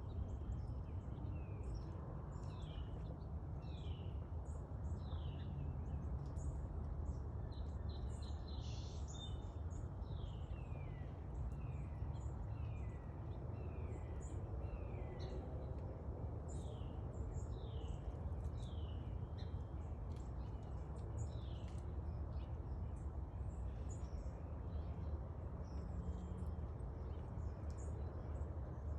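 Birds calling: a run of short, descending chirps, one after another, over a steady low rumble.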